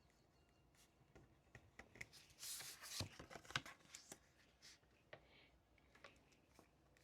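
Faint desk handling sounds: a short rustle of paper about two and a half seconds in, with scattered small clicks and taps around it.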